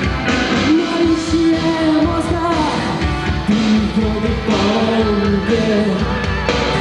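Rock band playing live: a long held melody line moving from note to note over guitar, bass and drums keeping a steady beat.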